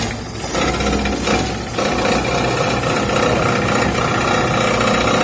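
Car engine running with a fast, tinny metallic rattle from underneath. The dented sheet-metal sump guard is pressed against the exhaust and engine and buzzes against them.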